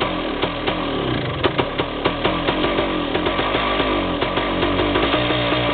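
Yamaha DT360A's single-cylinder two-stroke engine running rough on choke while the throttle is opened a little. It fires unevenly, with the pitch wandering up and down, and steadies somewhat near the end.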